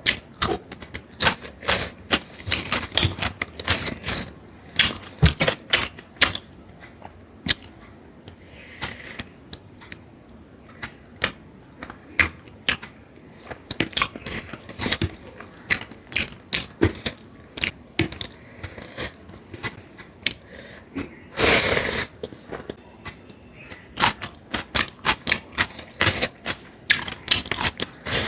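Close-miked eating sounds: wet chewing and lip-smacking of curry, a dense, irregular run of short clicks and smacks. There is a longer noisy burst about three-quarters of the way through.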